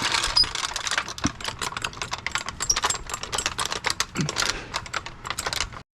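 Floor jack being rolled across a driveway, its casters and loose metal parts giving a rapid, irregular clatter of clicks.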